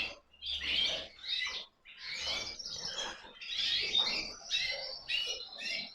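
Canaries chirping and twittering: many short, overlapping high chirps and brief trills.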